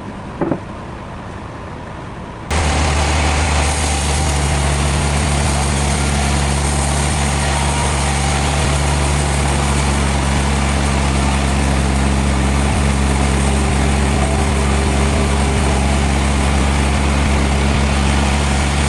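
Heavy engine-driven sawmill machinery running at a steady pitch. It has a deep low hum and a dense hiss over it, and starts abruptly about two and a half seconds in. Before it, a couple of short knocks over a lower background.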